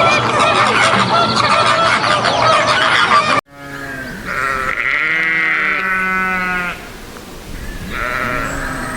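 A sheep or goat bleating: one long, wavering bleat about four seconds in, and another starting near the end. Before that comes a dense jumble of overlapping animal calls that cuts off suddenly.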